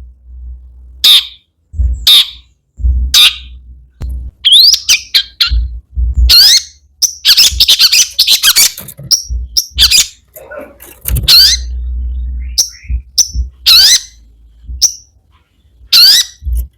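Long-tailed shrike (cendet) singing loudly: a run of short, harsh squawking calls and quick rising whistled notes, packed densely in the middle and more spaced out at either end.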